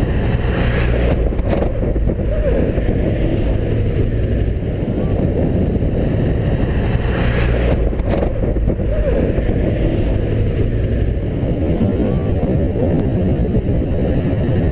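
Motorcycle riding at road speed: the Suzuki Inazuma GW250's parallel-twin engine runs steadily under a constant rush of wind on the microphone.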